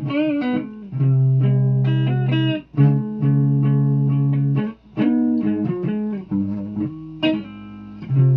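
Guitar being played: a string of held notes, with a wavering, bent pitch at the start and brief breaks between phrases.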